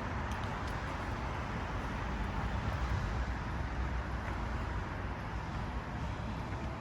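Steady traffic or road noise: a low rumble under an even hiss, with no single distinct event.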